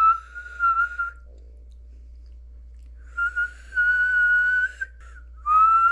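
A woman whistling with her lips: three long, steady held notes at about the same pitch, with short pauses between them.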